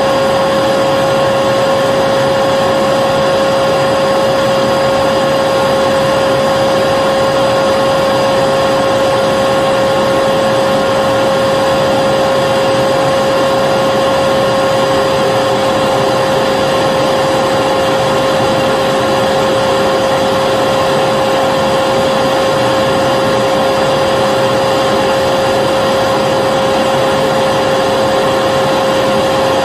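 Vacuum cleaner running steadily at one speed: an even rushing hiss of air with a constant motor whine and no change in pitch or level.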